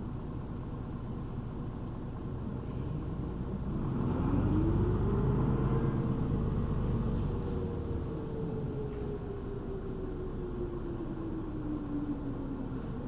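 City bus engine and road noise heard from inside the cabin. About four seconds in, the engine pulls harder and gets louder with a rising whine, which then slowly falls in pitch as the bus eases off.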